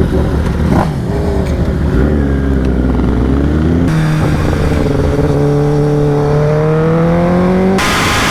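Sport-bike engines in edited clips: first an engine revving up and down, then a sudden cut about four seconds in to an engine note that rises steadily as the bike accelerates. Another cut near the end changes to a louder hiss.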